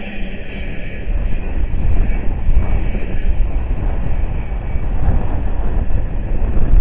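Intermodal freight train cars rolling by and receding down the track: a steady low rumble of steel wheels on rail, with surging, uneven loudness.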